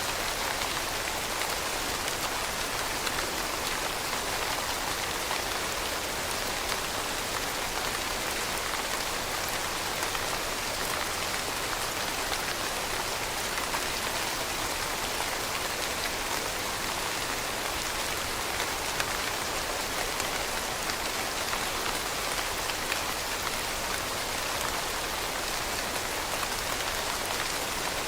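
Steady rainfall, a dense even hiss of raindrops with fine scattered patter and no change in intensity.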